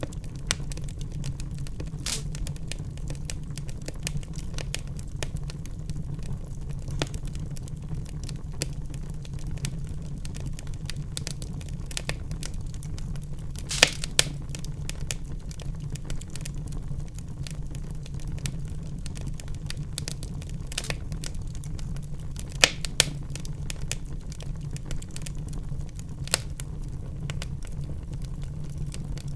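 Wood fire crackling in a fireplace: a steady low rumble of the flames under constant small snaps, with a few louder pops about halfway through and twice more near the end.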